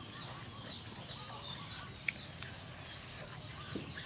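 Birds chirping softly in the background, many short high calls, with one sharp click about two seconds in.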